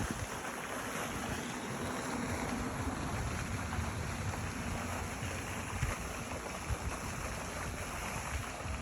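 Outdoor ambience: a steady rushing noise with irregular low buffets of wind on the microphone.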